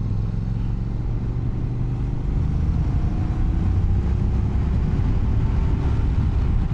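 Motorcycle engine running under way, with a steady low rumble of wind and road; its pitch rises slowly in the middle as the bike picks up speed.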